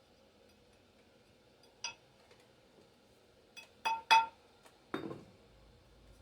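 Metal parts clinking against each other: one sharp ringing clink, then two louder ones close together, and a duller knock about five seconds in.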